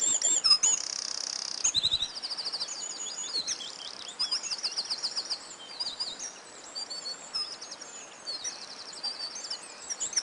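Several songbirds singing and calling together: high chirps and fast, evenly pulsed trills that overlap and follow one another without a break.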